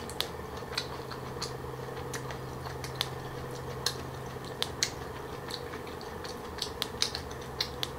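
Close-miked chewing of green papaya salad with pig ear: irregular sharp crunches, a few a second, as the crisp pig-ear cartilage and papaya are bitten through. A steady low hum runs underneath.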